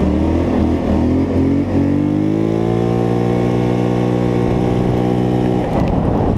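Polaris Scrambler 850 ATV engine revving up over a couple of seconds and held at high revs, then dropping off near the end, as the quad drifts on snow.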